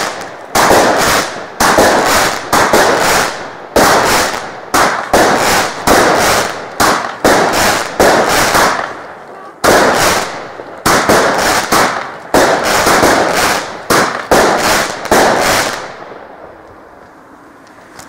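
Fireworks going off in a rapid, irregular run of loud bangs, two or three a second, each with a short fading tail; the barrage ends about 16 seconds in.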